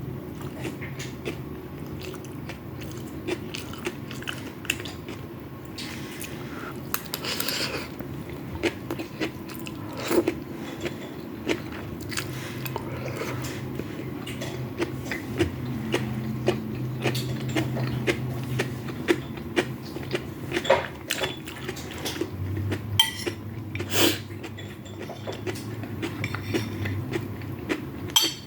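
Close-up eating sounds: chewing and biting fried rice with chicken and vegetables, with many short mouth clicks and smacks. A steady low hum runs underneath.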